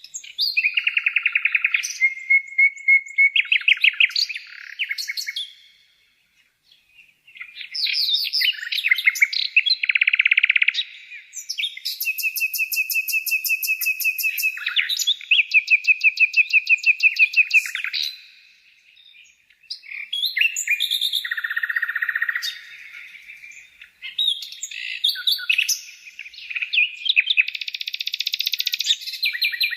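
Bird singing: varied phrases of rapid trills and fast repeated high chirps, with short pauses about six and nineteen seconds in.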